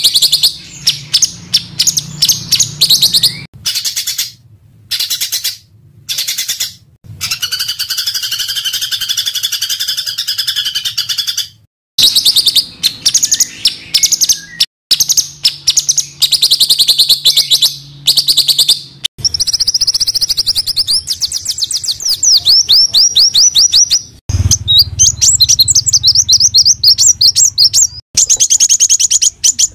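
Small songbirds singing rapid, dense, harsh trills and chattering phrases, high-pitched, in a string of recordings that cut off abruptly every few seconds.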